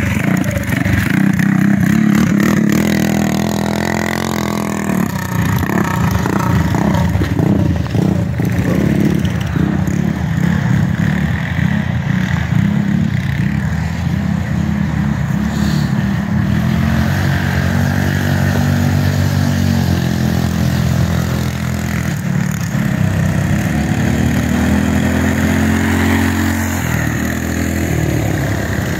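Small mini bike engines running hard, their pitch rising and falling as the riders throttle up and ease off.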